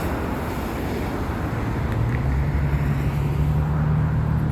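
Road traffic noise by a freeway off-ramp, with a steady low vehicle engine hum that comes in about two seconds in and grows slightly louder.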